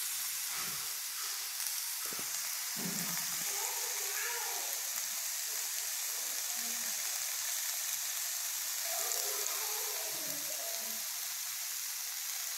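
Chicken tikka skewers of chicken, capsicum and onion frying in oil on a hot dosa tawa, a steady sizzle.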